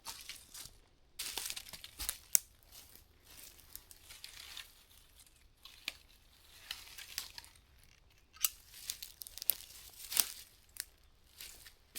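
Fabric rustling and crinkling as a tarp is handled during pitching, with irregular sharp clicks and knocks. One louder snap comes about two seconds in.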